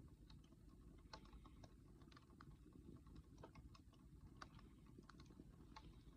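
Campfire burning wood, crackling faintly with irregular small pops over a low steady rumble.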